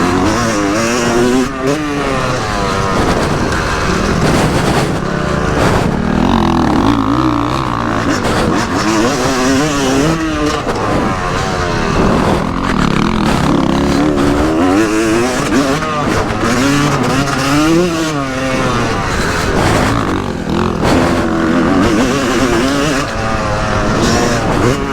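Yamaha YZ250 two-stroke motocross engine revving hard and repeatedly, its pitch climbing and dropping every second or two as the throttle opens and closes and the gears change.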